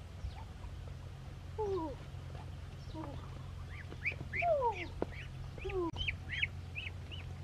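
Birds calling: a few calls that drop in pitch, then, about halfway through, a run of short high chirps at roughly three a second.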